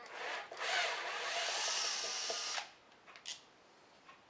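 Power drill-driver running for about two seconds while undoing a screw, stopping abruptly, followed by a faint click.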